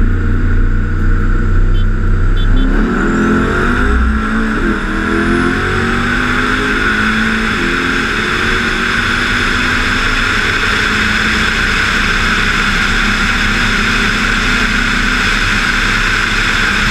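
Engine accelerating hard, its pitch climbing several times through gear changes a few seconds in, then holding a steady high note under a loud wind rush.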